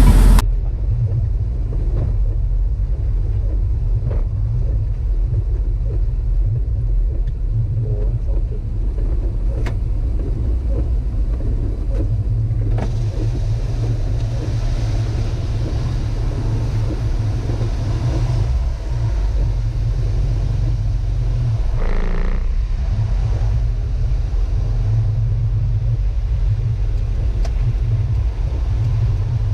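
Daihatsu mini truck being driven: a steady low rumble of engine and road noise.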